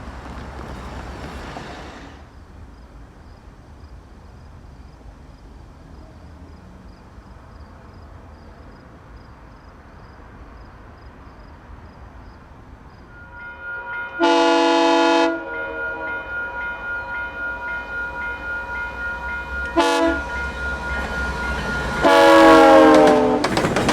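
Approaching GO Transit diesel commuter train, presumably led by an F59PH locomotive, sounding its air horn: a long blast, a short one, then a long one, with its bell ringing steadily between them, typical of a grade-crossing warning. The train's rumble grows louder near the end as it arrives.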